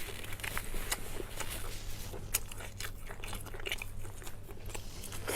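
A person chewing and biting food close to the microphone, with scattered small crunches and wet clicks, over a steady low hum.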